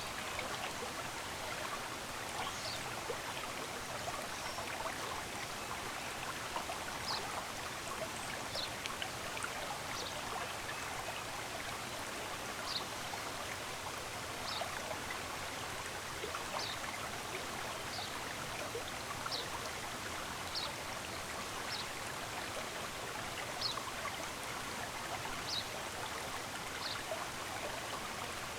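A stream of running water flowing steadily, with short high bird chirps repeating every second or two.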